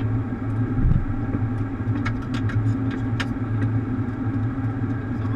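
Steady low hum of a Boeing 737 cockpit, with one low thump about a second in and several sharp clicks between two and three and a half seconds in.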